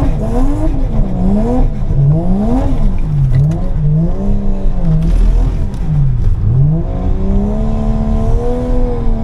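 Toyota JZX100 drift car's straight-six engine revved up and down about once a second as the car is drifted through figure eights, then climbing and held at a steady high pitch for the last couple of seconds.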